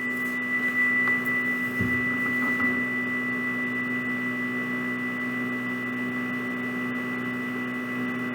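A struck chime ringing on in a long, steady, high tone with a lower hum beneath it, left to sound out until it fades.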